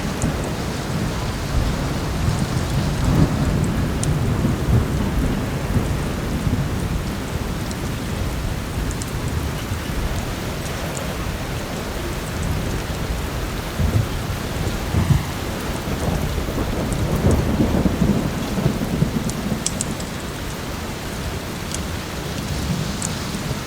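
Heavy rain pouring steadily under a continuous low thunder rumble that swells a few times. A wood fire crackles now and then in sharp, scattered snaps.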